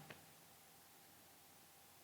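Near silence: faint room tone in a pause of speech.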